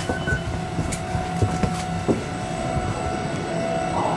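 Inside a moving electric commuter train: a steady rumble of wheels on the track, with a steady hum and scattered clicks and knocks.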